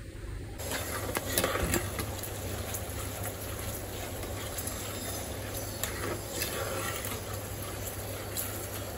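Finely chopped aromatics sizzling and crackling in hot oil in an earthenware pot as they are stirred with a metal spoon. The sizzle starts suddenly about half a second in, with scattered sharp crackles through it.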